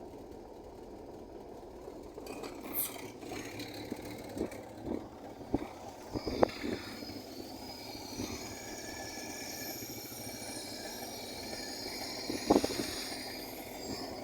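The newly repaired engine running steadily, with a few sharp knocks and clicks over it. From about halfway, thin high-pitched tones sound above the engine.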